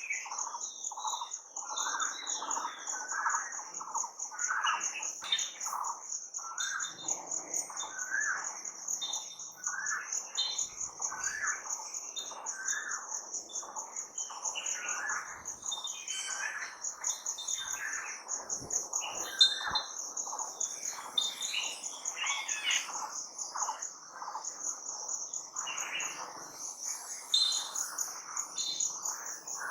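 Several wild birds chirping and calling, with short overlapping notes throughout, over a steady high-pitched pulsing insect trill.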